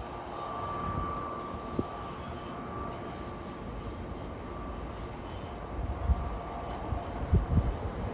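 Train running past with a steady rumble and a thin, steady squeal for the first few seconds, then a few sharp knocks near the end.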